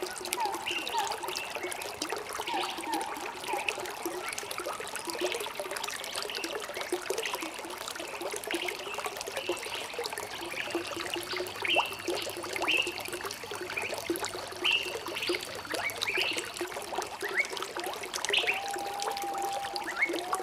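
Water trickling and burbling steadily, as from a small stream, with birds chirping in short calls throughout and one long whistled note near the end.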